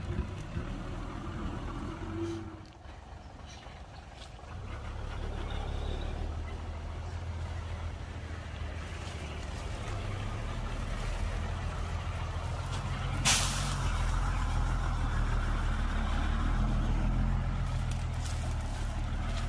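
Heavy diesel earthmoving machinery running with a steady low drone that drops briefly, then builds up louder a few seconds in. About two-thirds of the way through comes one short, sharp hiss of air.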